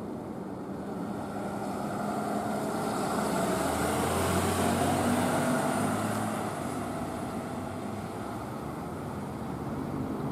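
A road vehicle driving past: engine hum and road noise grow louder for a few seconds, peak about halfway through, then fade.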